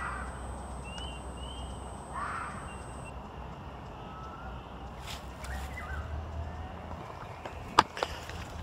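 Animal calls: short arching calls in the first couple of seconds, over a low rumble. Later come a few clicks and one sharp knock about three-quarters of the way through.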